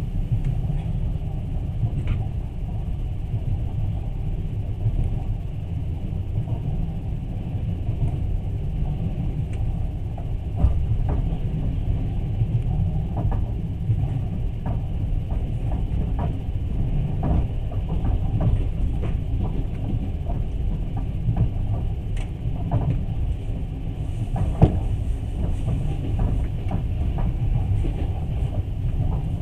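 Steady low rumble of a moving passenger train heard from inside the carriage, with scattered clicks and knocks from the wheels and car body. A sharper knock comes about a third of the way in and another later on.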